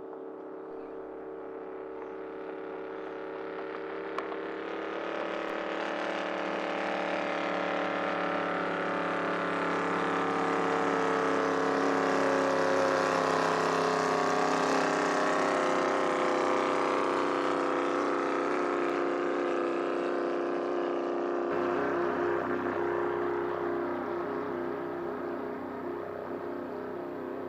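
A 5-litre racing hydroplane's engine running hard at speed. It builds over several seconds to its loudest about halfway through, then slowly fades as the boat passes.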